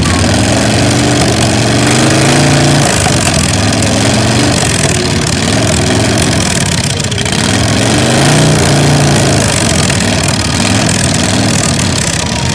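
Custom chopper motorcycle engine being revved over and over, its pitch rising and falling several times between short stretches at idle.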